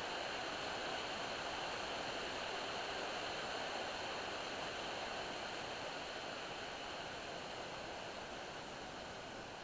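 Steady rush of water from a nearby waterfall, slowly fading a little toward the end.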